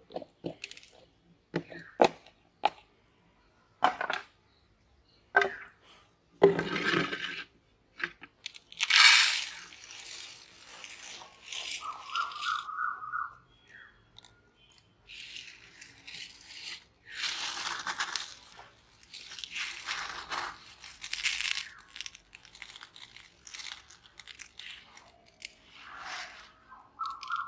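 Crystal sugar candy being crushed in a meat grinder: sharp separate cracks at first, then repeated bursts of crunching and grinding. A short pulsing squeak sounds twice, about halfway through and at the very end.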